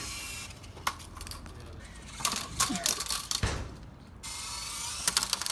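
Toy remote-control helicopter: a faint whir of its small electric motor and rotor, with a run of sharp clicks and rattles, thickest in the middle and again near the end.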